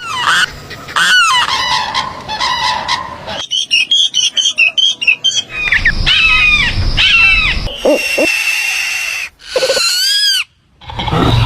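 A run of different birds calling, one after another in short pieces of two seconds or so that change abruptly: repeated sliding, honking and chirping calls, with a brief gap near the end.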